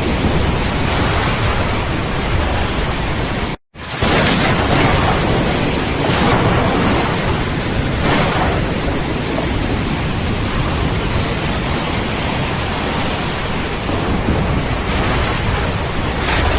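Steady heavy rain with low rumbling thunder in a thunderstorm. The sound cuts out completely for a split second about three and a half seconds in, then resumes.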